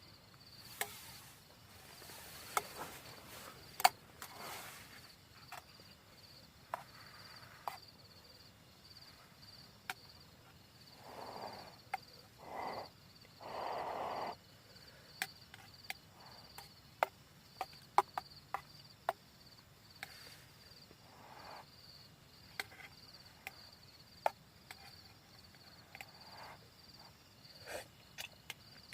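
Crickets chirring steadily in the background, with scattered sharp clicks and knocks throughout and a few short rustling bursts near the middle.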